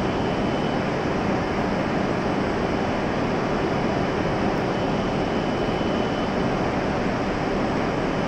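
Steady hum and whir of an E7-series Shinkansen train standing at the platform with its doors open, its air-conditioning and equipment running, at an even level with no sudden sounds.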